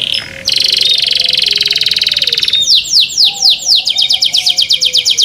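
Canary singing: a very fast, even trill, then from about halfway through a run of quick downward-sliding notes, about six a second.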